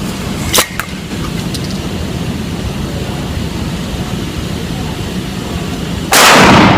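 Steady low rumble, with a sharp click about half a second in. Near the end a Mossberg 500 pump-action shotgun fires: a blast loud enough to overload the recording for over half a second before it fades.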